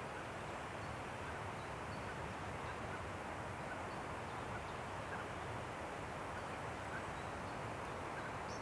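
Steady wind rushing through forest trees, with a few faint, short bird chirps here and there.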